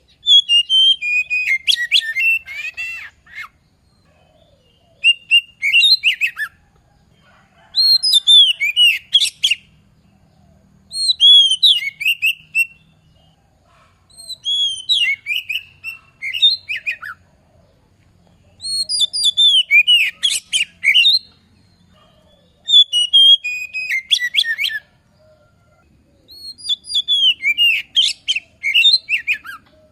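Oriental magpie-robin singing in loud, varied phrases of sliding whistles and quick chattering notes, each phrase two to three seconds long with short pauses between, about eight phrases in all.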